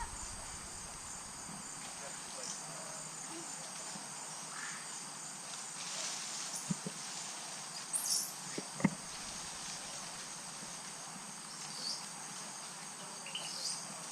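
Steady, high-pitched chorus of rainforest insects. A few short high chirps and a couple of soft knocks stand out briefly in the middle.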